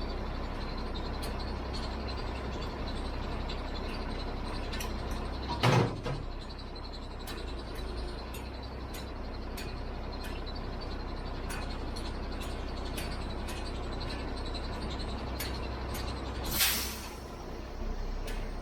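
Heavy truck's diesel engine idling steadily, with a short loud thump about six seconds in and a sharp burst of compressed-air hiss near the end.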